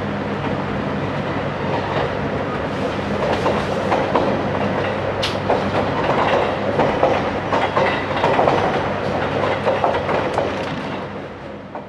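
Cabin of a JR Hokkaido Series 711 electric train running, with wheels clicking over rail joints over a steady running hum. The sound fades out near the end.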